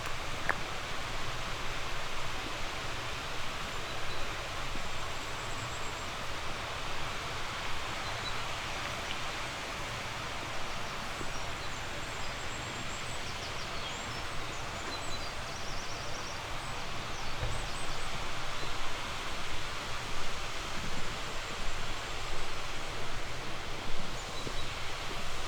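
Steady rushing of a flowing river, with faint high bird chirps scattered over it.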